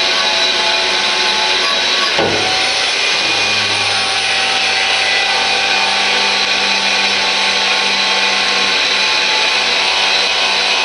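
A power tool running steadily under load as it strips old paint off metal pulley brackets. Its tone shifts about two seconds in, and a deeper hum joins soon after.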